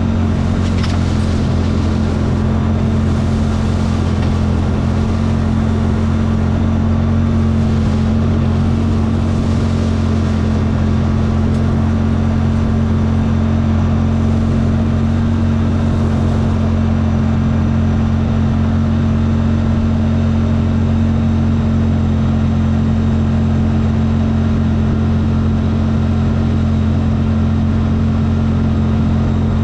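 CFMoto engine running steadily at one constant pitch, a continuous drone with no revving.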